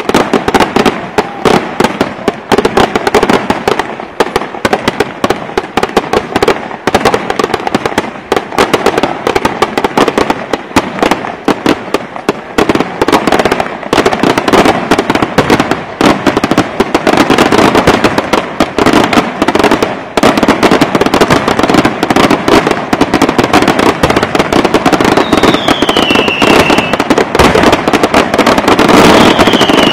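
Aerial fireworks display: a rapid, continuous barrage of bangs and crackling from bursting shells, growing denser and louder in the second half. Two short falling whistles sound near the end.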